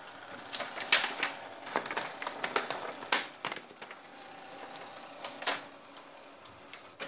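Irregular clicking and clacking of an HP LaserJet Pro MFP M127fw laser multifunction printer being handled and worked, its feeder and scanner parts snapping and rattling, with a faint steady hum for a couple of seconds in the middle.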